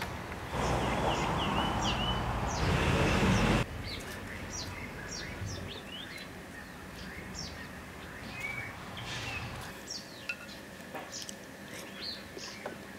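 Small birds chirping, with short quick calls scattered throughout. For the first few seconds a louder steady rushing noise lies under them and cuts off suddenly about three and a half seconds in.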